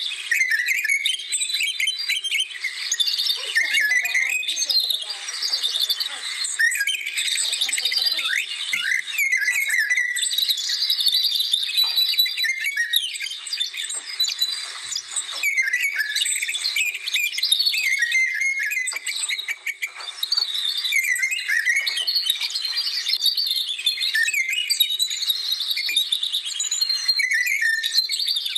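Many songbirds singing and chirping at once in a busy, unbroken chorus of high, quick calls, with a faint steady hum underneath.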